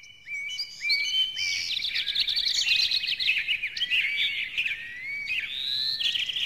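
Birdsong: many short chirps and whistles from several birds, overlapping and sliding up and down in pitch.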